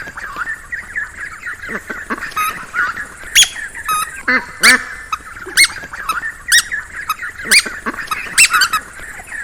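A group of ducklings peeping, many thin calls overlapping, with louder sharp calls about once a second from a few seconds in.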